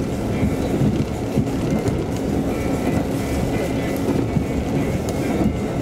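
KiHa 185 series diesel railcar running at speed, heard from inside the passenger cabin: a steady rumble of engine and wheels on the rails.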